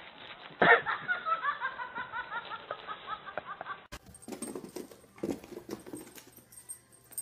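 A person laughing in a quick run of short bursts that slowly fall in pitch for about three seconds. After a cut, a few short, quieter sounds follow.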